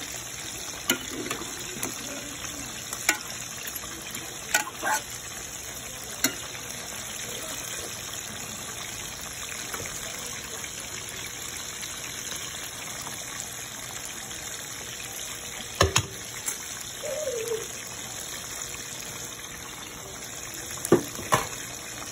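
Chicken adobo sizzling and simmering in its sauce in a pot, a steady hiss. It is stirred with a spoon near the start, and a few sharp clicks and knocks are heard against the pot.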